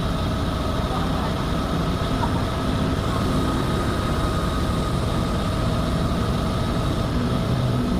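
Crane truck's engine running steadily at low revs, with a thin steady whine above it.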